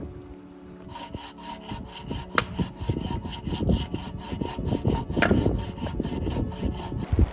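Hand saw cutting wood with rapid, even back-and-forth strokes, starting about a second in and stopping abruptly near the end.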